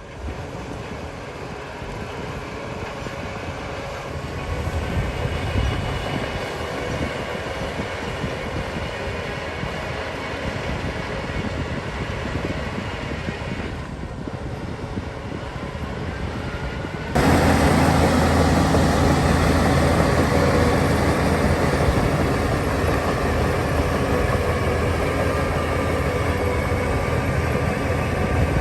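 Crawler bulldozer's diesel engine running with its steel tracks clanking. Partway through it abruptly gets louder, with a heavier low engine drone.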